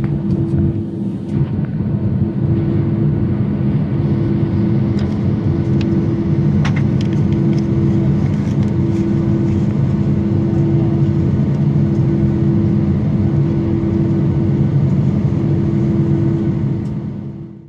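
Steady drone of an airliner's jet engines heard inside the cabin while the plane taxis, with a few faint clicks. It fades out near the end.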